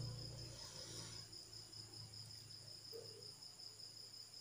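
Crickets trilling faintly, a steady, rapidly pulsing high note.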